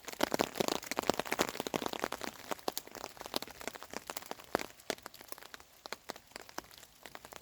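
Raindrops pattering irregularly on a tarp overhead, dense at first and thinning out after about two seconds.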